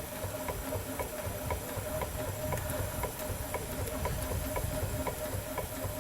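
5/8 scale Wood Brothers steam traction engine running slowly: about two ticks a second over a low, steady rumble, with a faint steady hiss of steam.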